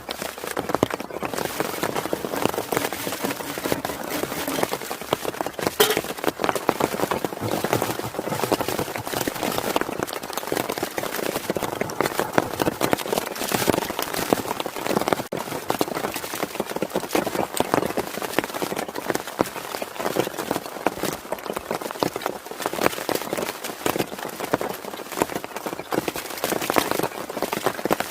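Steady rain falling: a dense, even patter of countless drops striking a surface.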